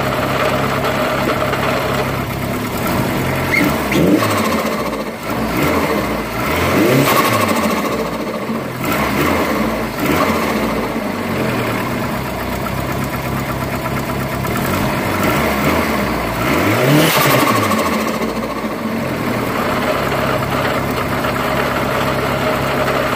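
Turbocharged Dodge Neon four-cylinder idling steadily, revved up and let fall back several times. It has just been fitted with a Greddy Type RS blow-off valve, and the revving is to try it out.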